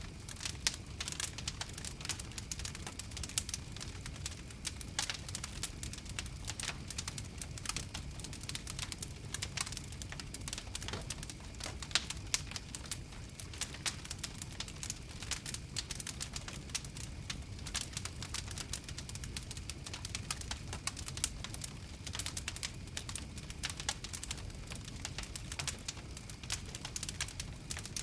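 Fire crackling: a dense, irregular run of sharp pops and snaps over a low, steady rumble.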